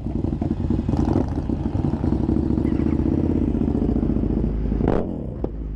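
Motorcycle engine running steadily while riding, its rapid firing pulses even throughout, with a brief whoosh near the end.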